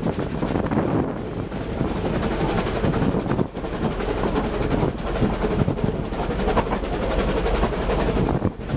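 Narrow-gauge steam train on the move, a steady rumble and rattle of running gear on the rails, with some wind on the microphone.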